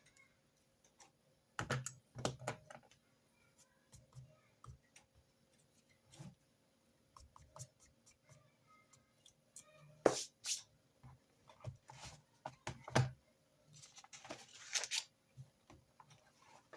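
Desk sounds of note-taking: irregular clicks and taps, with a sharper knock about ten seconds in and a short scratchy rustle around fifteen seconds.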